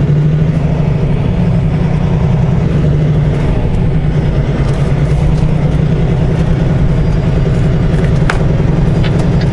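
Semi truck's diesel engine running steadily under way, heard from inside the cab as a low, even drone.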